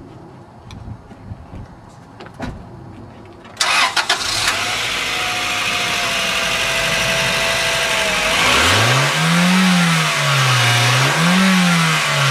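Honda four-cylinder car engine cranking and catching about three and a half seconds in, then running at a steady idle. In the last few seconds it is revved twice, the pitch rising and falling each time.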